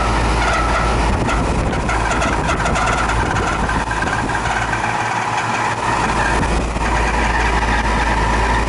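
Condenser fan motor of a 20-year-old air-conditioning outdoor unit running noisily: a steady low hum with a high whine over it. The noise is a sign of a failing motor that needs replacing.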